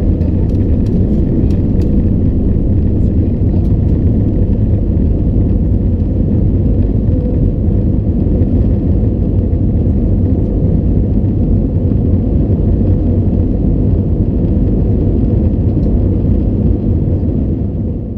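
Airbus A320 airliner noise heard from inside the passenger cabin: a loud, steady low rumble of the engines and airflow, easing a little near the end.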